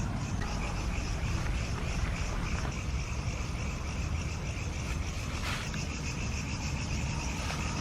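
Insects chirping in an even, pulsing rhythm of about three pulses a second, over a steady low rumble.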